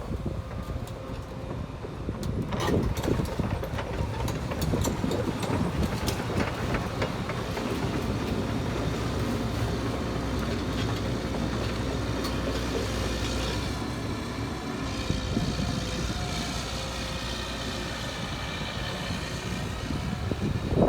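Liebherr R 934 tracked excavator running, a steady low engine rumble. Metal clanks and knocks come through in the first several seconds, and a faint high wavering whine comes in the second half.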